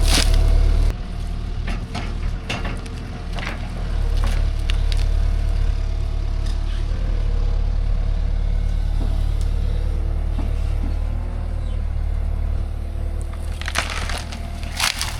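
Excavator's diesel engine running steadily while wood cracks, snaps and splinters as the machine breaks up and clears small trees and brush, with the loudest cracks about a second in and again near the end.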